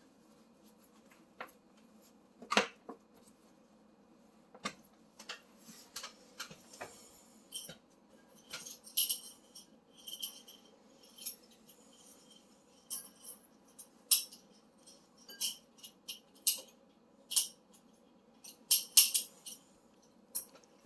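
Irregular light metallic clicks and clinks of hand work on the stove's sheet-metal panels and screws, with a sharper knock about two and a half seconds in and a quick cluster of clinks near the end.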